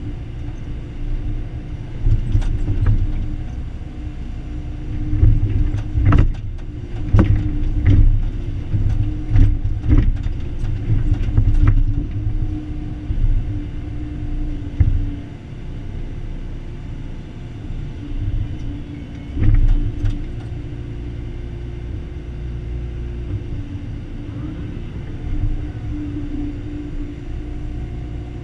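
Excavator's diesel engine running steadily while digging, with a run of sharp knocks about two to twelve seconds in and another pair near twenty seconds.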